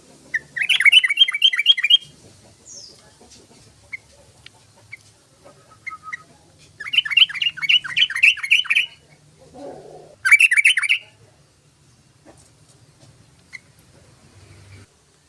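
Sooty-headed bulbul (trucukan) singing three bursts of rapid, quickly repeated chattering notes, the last one shorter, with a few single chirps in between.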